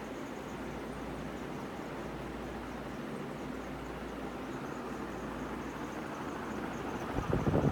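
KDK B56YK industrial ceiling fan running: a steady rush of moving air with a low hum. About seven seconds in, louder uneven low thumping starts.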